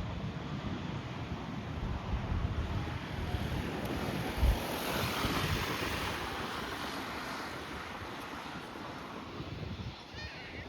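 Jet airliner engine noise: a broad rushing that swells about halfway through and then slowly fades, with wind buffeting the microphone and a brief low thump a little before the middle.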